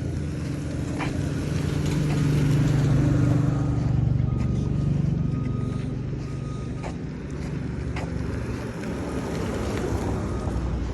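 A motor vehicle's engine running close by, a steady low hum that grows louder a couple of seconds in and fades again, with a few sharp clicks.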